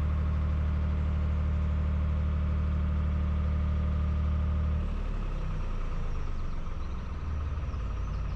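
Narrowboat's diesel engine running with a steady low hum; about five seconds in its note changes and eases slightly.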